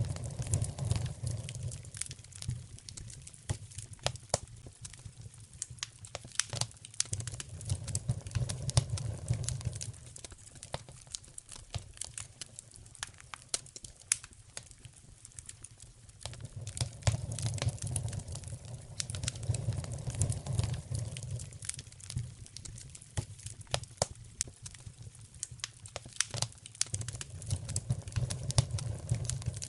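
Wood fire burning in a fireplace: dense, irregular crackling and popping, over a low rumble of flames that swells and eases every several seconds.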